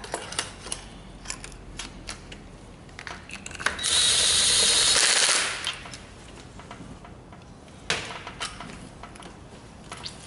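Workshop tool handling, with scattered metallic clicks and knocks around the engine while the compression test is set up. About four seconds in there is one loud, steady hiss lasting about a second and a half.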